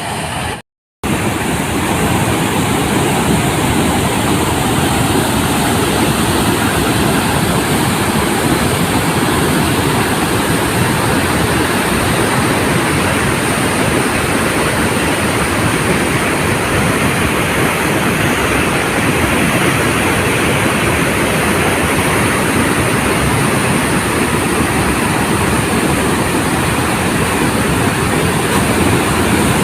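Water rushing steadily through a dam's spillway, a loud, even noise that holds unchanged after a brief cut in the sound near the start.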